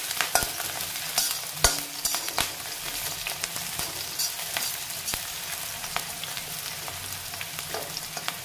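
Sliced onions and cumin sizzling in hot ghee in a metal kadhai, stirred with a flat metal spatula that scrapes and clinks against the pan. There is a steady sizzle with scattered sharp clinks, the loudest about one and a half seconds in.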